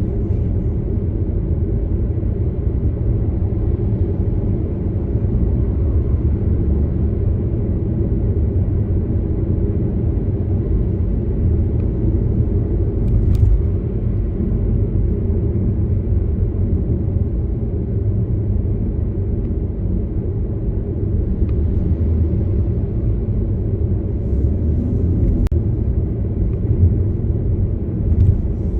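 Steady low rumble of a car being driven, road and engine noise with no change in pace.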